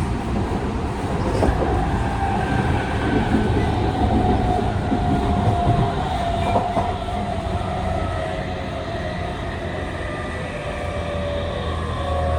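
Running noise inside a Tokyu 5000-series motor car with a Hitachi IGBT-VVVF inverter and TKM-98 traction motors: the motor whine falls slowly and steadily in pitch as the train slows, over the rumble of wheels on rail.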